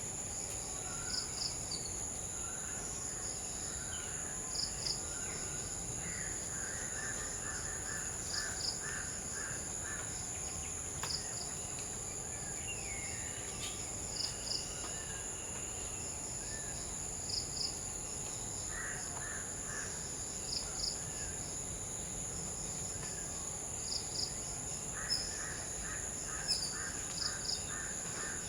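Crows cawing in several runs of quick repeated calls, over a steady high-pitched insect drone. A short double chirp also sounds every few seconds.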